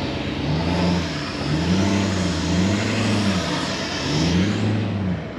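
Vehicle engine accelerating under a haze of road noise. The engine note climbs and drops again several times, about every second and a half, as it changes up through the gears.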